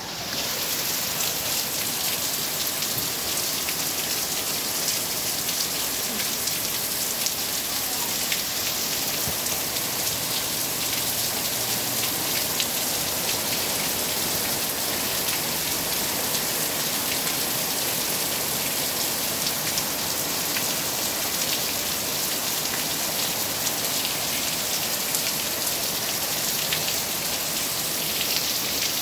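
Steady heavy rain, an even hiss of rainfall with a dense patter of individual drops striking nearby surfaces.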